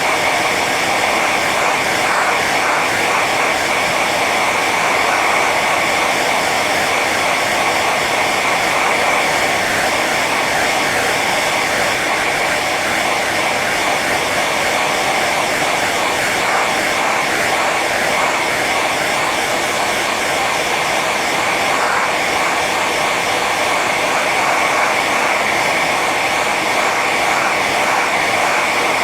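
Hair dryer running steadily on its high setting: an even, continuous blowing with a whine near the top.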